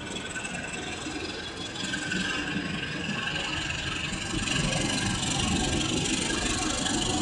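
Train approaching, its running noise growing steadily louder over the first few seconds and then holding.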